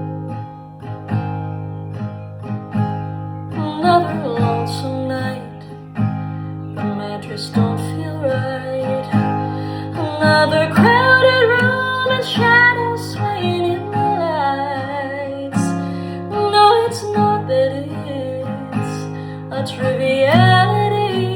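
Acoustic guitar playing a steady rhythmic accompaniment in a folk-country song, with a gliding, wavering melody line over it from about four seconds in.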